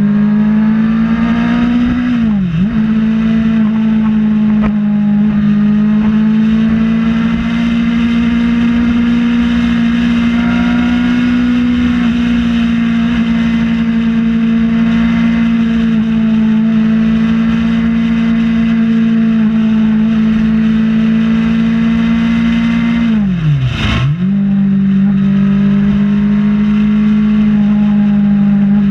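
Kawasaki Ninja ZX-6R inline-four engine running steadily at highway cruising revs, with wind rush. Twice, about two seconds in and again near the end, the revs dip sharply for a moment and come straight back as the throttle is briefly closed and reopened.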